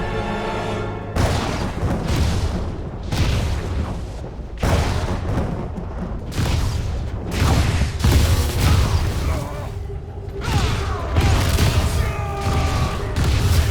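A rapid series of booming lightning-blast and thunder-crash sound effects from an animated fight, with heavy low rumble, over dramatic music. Music alone plays for about the first second, and the music comes forward again near the end.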